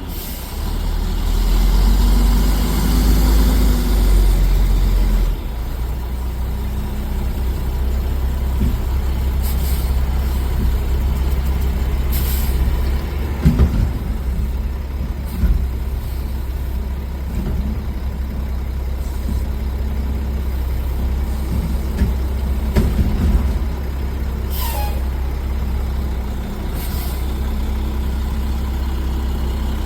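Garbage truck running with a steady low diesel drone, louder for the first few seconds, with several short hisses of released air and a few clunks.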